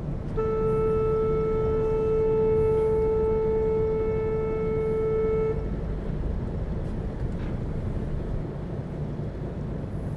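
A ship's horn sounds one long, steady blast of about five seconds, over the continuous low rumble of a vessel's engine, which runs on after the horn stops sharply.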